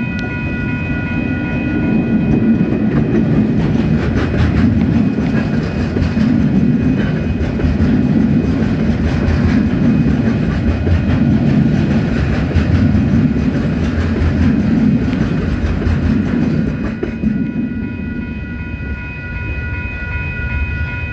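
KiwiRail DSG-class diesel-electric shunter, with its straight-six diesel, and a string of container wagons rolling over a level crossing: a heavy rumble with wheels clacking over the rail, loudest from about two seconds in and easing off about four seconds before the end as the last wagon clears. The crossing's alarm bells ring steadily throughout.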